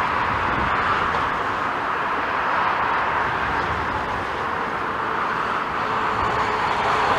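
Jet airliner's engines on a landing approach, a steady rushing noise; a faint high whine joins near the end.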